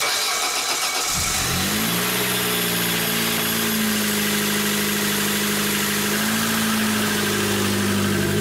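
A 1996 Opel Corsa B's engine being started: about a second of cranking, then the engine catches, its revs rise briefly and it settles into a steady idle.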